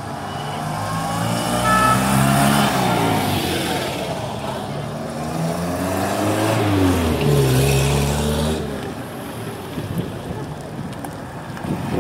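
Vintage cars driving slowly past one after another, each engine note swelling and then falling away as it goes by. The loudest passes come about two seconds in and again about seven seconds in, the second from a white Škoda 100-series saloon.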